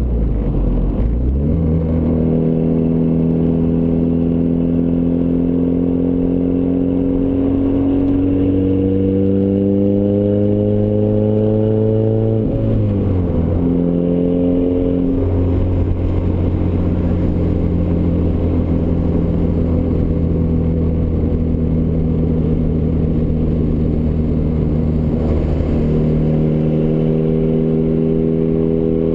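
Turbocharged Ford Escort ZX2's four-cylinder engine running through a custom 3-inch side-exit exhaust. The pitch climbs slowly for about ten seconds, then falls back quickly about halfway through, rises briefly, and then holds steady.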